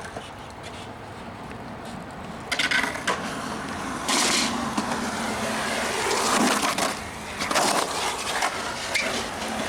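Skateboard wheels rolling, with sharp clacks of the board about two and a half and four seconds in, and more scattered knocks later.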